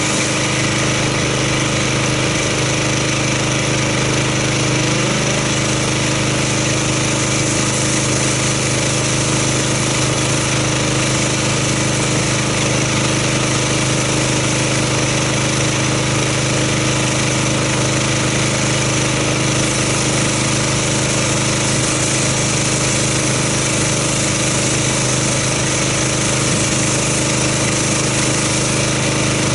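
Gas-engine pressure washer running steadily, with the hiss of its water spray as it rinses soap foam off a car.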